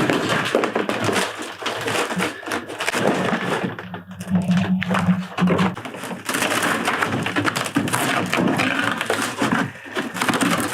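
Rotten, wet plywood floor of a fibreglass boat being ripped up: a constant run of cracking, breaking and knocking, with a brief steady hum a few seconds in.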